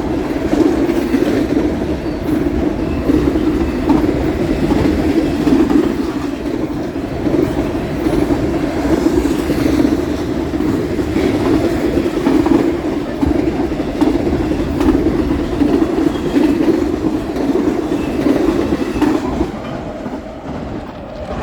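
Freight train rolling past at speed: a steady rumble of steel wheels on rail with clickety-clack over the joints, easing off about nineteen seconds in as the last cars go by.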